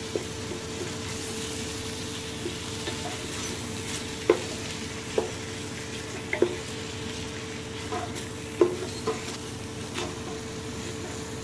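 Tomatoes, green chillies and ginger-garlic paste sizzling as they fry in oil and ghee in an aluminium pot, stirred with a wooden spoon. The spoon knocks sharply against the pot wall every second or two.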